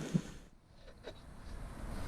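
Near silence with a faint tick at the start, then a low rumble that builds near the end.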